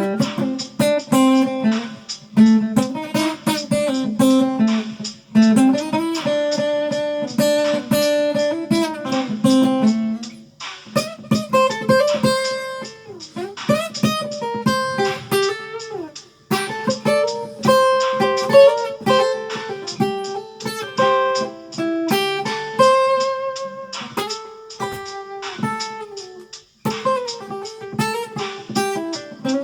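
Guitar instrumental break: plucked single-note melody lines over held chords, with no singing.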